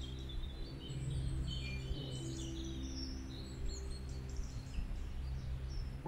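Small woodland birds chirping and calling, with quick high notes and short sweeping calls. Soft background music with long held low notes plays underneath.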